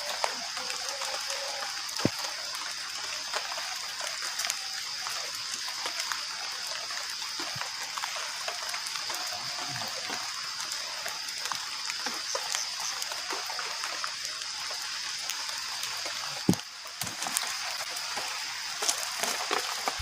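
Steady rain falling in a forest, an even hiss throughout, with a few sharp knocks, the loudest about sixteen seconds in.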